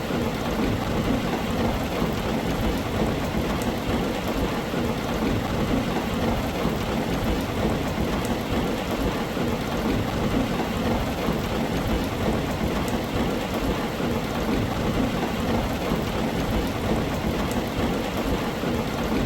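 Heavy rain falling steadily on a tin roof, an even unbroken patter with scattered sharper drop ticks.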